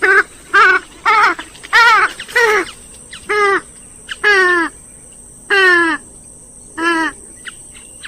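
Grey-headed swamphen giving a series of about nine loud, nasal squawking calls at irregular intervals. Several calls slide down in pitch, and the later ones are drawn out longer.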